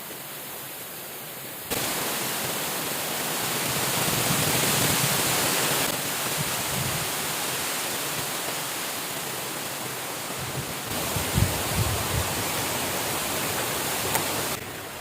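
Steady rushing of water, its loudness jumping up abruptly about two seconds in and stepping down again later, with a few soft low thuds a little past the middle.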